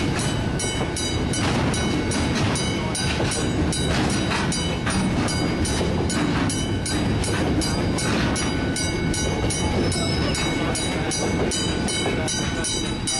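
Freight train's container wagons rolling steadily past, a loud continuous rumble of wheels on rails.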